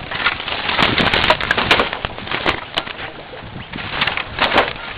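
Pieces of firewood knocking and clattering against each other as they are laid crosswise in a square stack, with clusters of sharp knocks in the first two seconds and again about four and a half seconds in.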